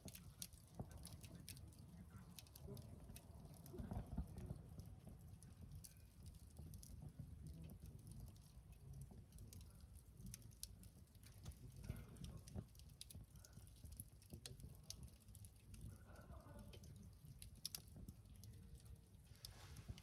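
Quiet crackling of a wood campfire: scattered sharp ticks and pops at an uneven pace, over a faint low rumble.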